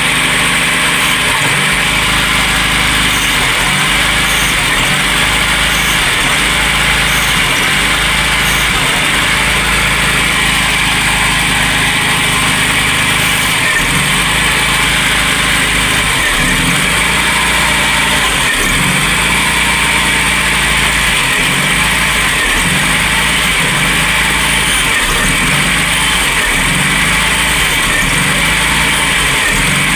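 Classic VW Golf/Polo four-cylinder petrol engine on its MP9 single-point injection, idling steadily after a cold start.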